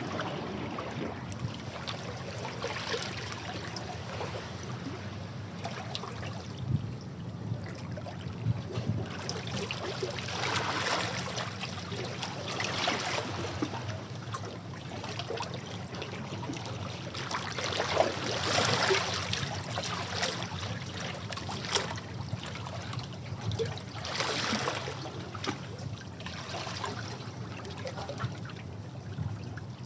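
Sea waves washing against rocks, a steady rush of water with a louder surge every few seconds.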